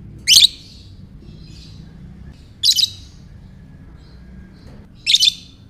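Lovebird giving three short, shrill calls about two and a half seconds apart.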